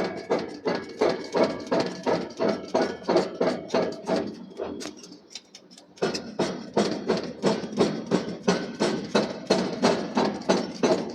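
Hammer blows on steel in forging, a fast even series of about three to four ringing strikes a second. They stop for about a second and a half partway through, then start again.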